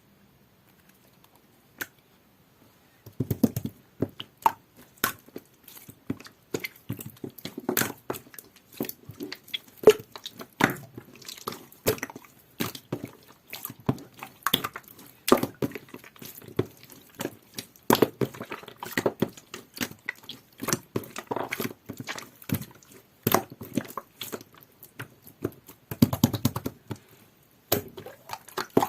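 Clear, jelly-textured slime being squeezed and worked by hand, giving a dense, irregular run of wet pops and clicks that starts about three seconds in.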